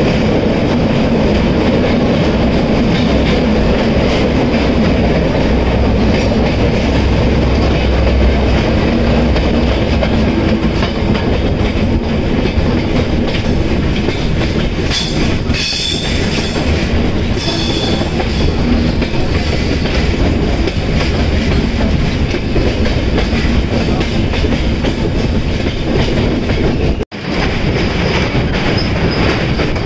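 Passenger express train running along the track, its wheels clattering steadily, with two short high-pitched screeches from the wheels around the middle. The sound cuts out for an instant near the end.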